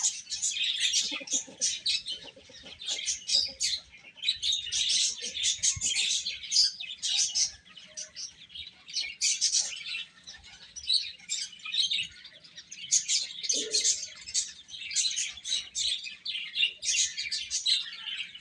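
A group of baby chicks chirping continuously, many high, rapid peeps overlapping in bursts.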